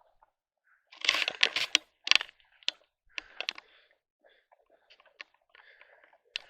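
A horse crunching apples in its teeth. A dense run of sharp, loud crunches comes about a second in, then scattered smaller crunches and clicks as it chews.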